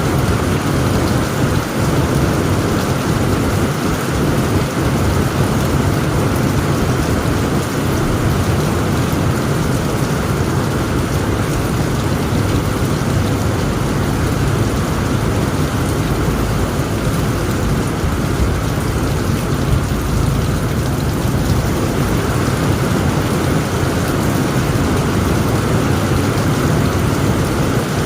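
Heavy rain pouring steadily on a tent roof, with the low rolling rumble of thunder underneath.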